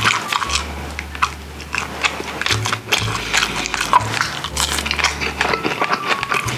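Close-miked chewing, with wet mouth clicks and lip smacks, from eating grilled mackerel, over background music with held bass notes.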